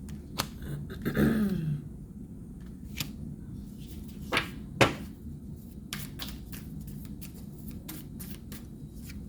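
Tarot cards being handled and laid down on a table: scattered light taps and clicks, two louder ones a little before the five-second mark. About a second in there is a brief low vocal murmur that falls in pitch.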